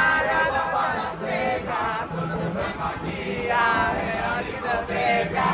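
Several voices singing together in chorus, with music.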